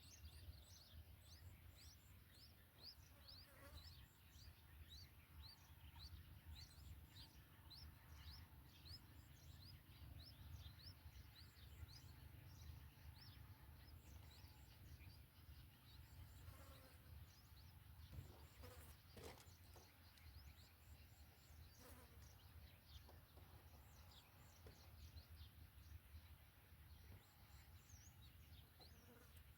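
Faint, high, short chirps that sweep downward, repeated steadily about once or twice a second, over a low rumble. A few soft knocks come about two-thirds of the way in.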